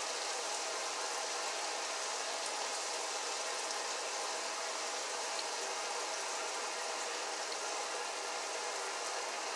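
Breaded chicken gizzards frying in hot grease in a skillet, a steady, even sizzle.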